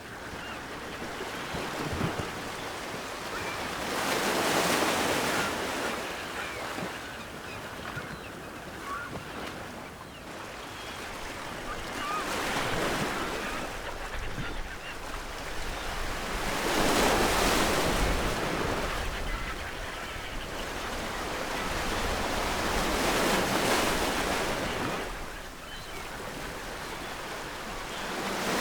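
Ocean waves breaking on a shore, each wash swelling and fading every five to eight seconds. Gulls call faintly in the distance.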